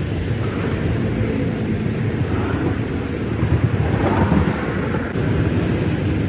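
Steady low rumble of a running vehicle engine, swelling slightly a little past the middle.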